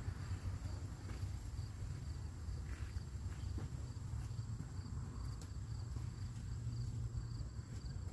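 Insects chirping in a steady, evenly pulsing high trill over a low outdoor rumble.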